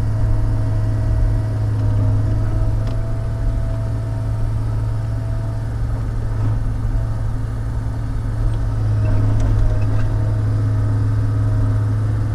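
Diesel engine of a log-loading shovel running steadily with an even, low hum.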